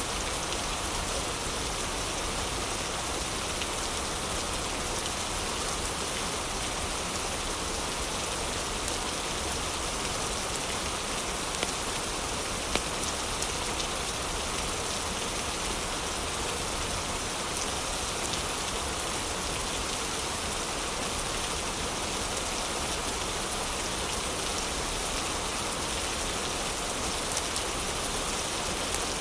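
Heavy rain falling steadily, mixed with a fireplace that gives a few sharp crackles, a cluster around the middle and another near the end.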